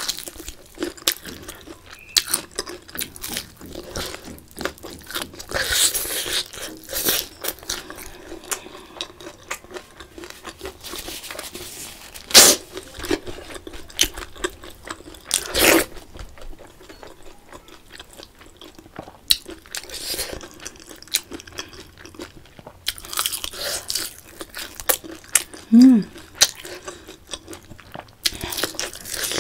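Close-miked eating: a person biting and chewing fried chicken and curry rice eaten by hand, with many crisp crunches and wet chewing sounds. The two loudest crunches come a little past the middle.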